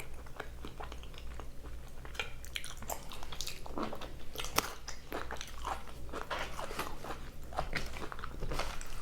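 A person chewing a mouthful of carne asada fries close to the microphone, with many short, irregular mouth clicks.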